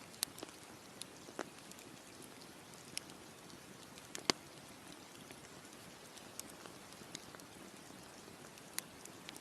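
Campfire crackling: a steady soft hiss with irregular sharp pops and snaps, the loudest about four seconds in.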